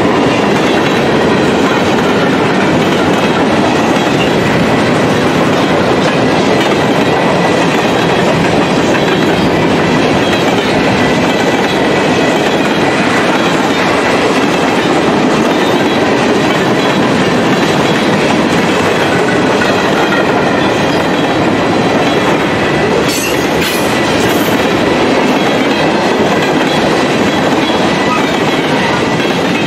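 Freight train of mixed cars passing close by: loud, steady running noise of steel wheels on the rails, with a faint high steady whine. A short spell of sharper clanks comes about 23 to 24 seconds in.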